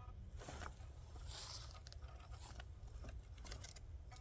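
Faint scraping and crunching: about five short, rough scrapes over a low rumble, the longest and brightest about a second and a half in.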